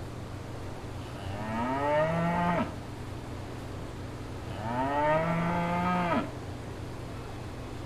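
A cow mooing twice, each moo rising in pitch then held for about a second and a half before stopping abruptly, over a steady low hum.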